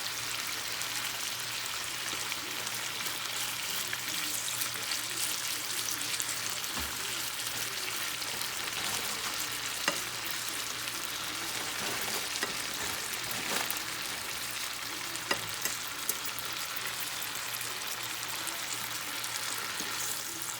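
Thinly sliced chicken sizzling steadily in hot oil in a frying pan, with a few sharp pops about halfway through and again a few seconds later.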